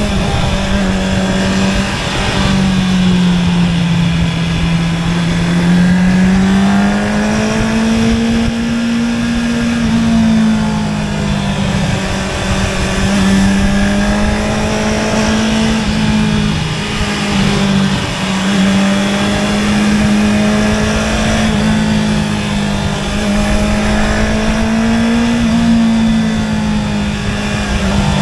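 Honda CB650R's inline-four engine through an Akrapovic exhaust, running at steady mid revs. Its pitch rises and falls gently as the throttle is opened and eased through the ride.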